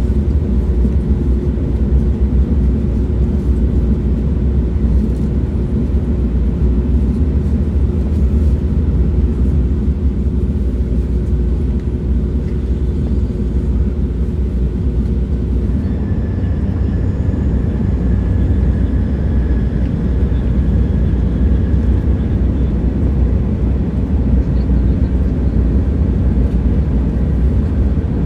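Train running with a steady low rumble. A faint steady hum stops about halfway through, and a fainter, higher whine follows for several seconds.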